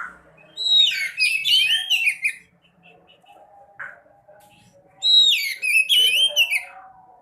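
A sekoci songbird singing two fast, twittering whistled phrases of about two seconds each, with quick rising and falling notes, and a short single call between them.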